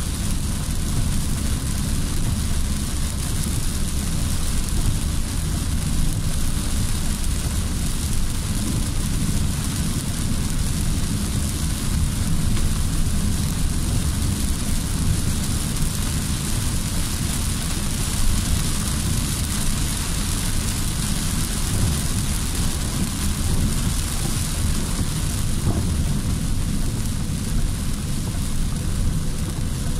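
Heavy rain drumming on a car's roof and windshield, heard from inside the cabin, over a steady low rumble of the moving car and wet road. The downpour keeps up at an even level throughout.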